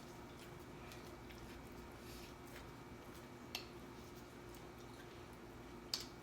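Quiet eating: faint chewing of fried chicken wings over a steady low hum, with two short sharp clicks, the louder one near the end.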